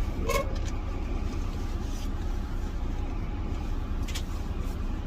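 Steady low rumble of a moving vehicle heard from inside it, with a short beep-like tone about a third of a second in.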